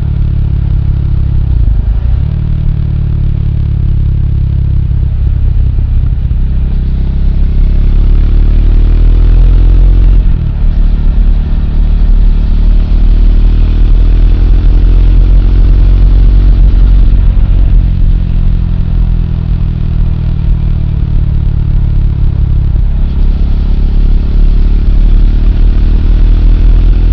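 Triumph Speed 400's single-cylinder engine running under way. Its pitch dips about two seconds in and again about ten seconds in, then climbs steadily as the bike accelerates.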